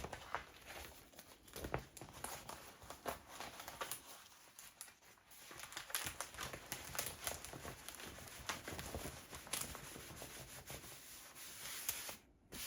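Rolled diamond-painting canvas under its plastic cover film being unrolled and smoothed flat by hand: irregular crinkling and crackling, with a short break near the end.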